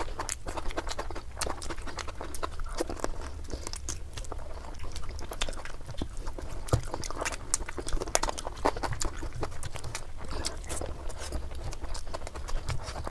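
Close-miked eating sounds: a person chewing and smacking, dense irregular wet clicks and smacks, over a steady low hum.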